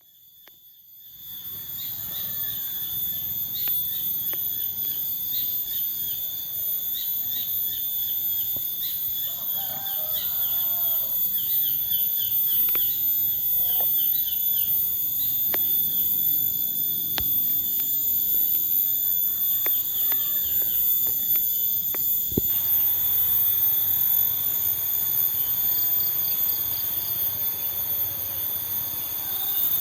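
Forest ambience: a steady high drone of insects at several layered pitches, with birds chirping in quick repeated falling notes through the first half. The background changes abruptly about three-quarters of the way through, then the insect drone carries on.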